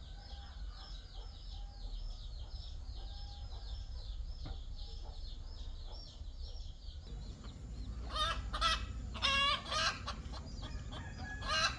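Chickens clucking, with loud calls about eight and nine seconds in and again near the end. A fast, high repeating chirping runs under the first seven seconds.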